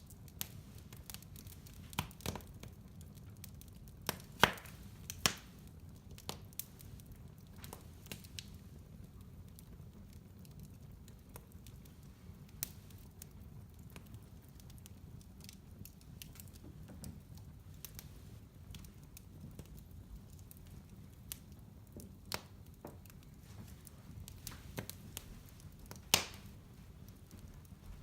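Fireplace fire crackling: irregular sharp pops and snaps over a low, steady rumble, with a few louder pops about four and five seconds in and again near the end.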